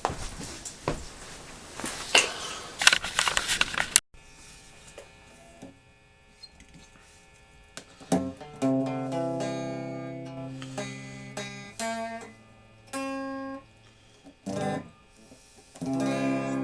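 Noisy rustling with sharp clicks that cuts off abruptly, followed after a short near-quiet gap by slow music on a plucked string instrument: single notes and small chords, each left to ring and fade.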